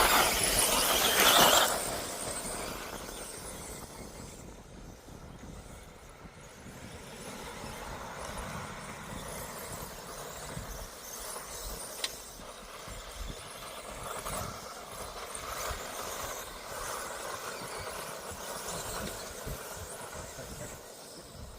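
1/10th-scale two-wheel-drive electric off-road RC buggies racing: a loud burst for the first two seconds as they pull away, then the quieter whine of their electric motors rising and falling as they lap the track.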